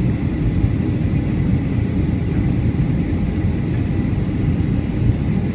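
Steady low rumble of a Boeing 757-200 in flight, its jet engines and rushing airflow heard from inside the passenger cabin, with a faint steady whine over it.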